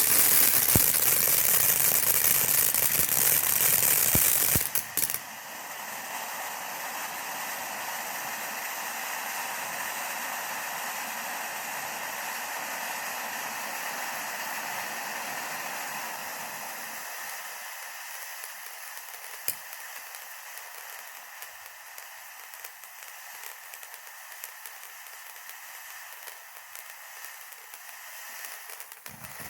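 TNT Standout firework fountain spewing sparks with a steady hiss. The hiss is much louder for about the first five seconds, then drops and fades further later on, with a single sharp pop about two-thirds of the way through.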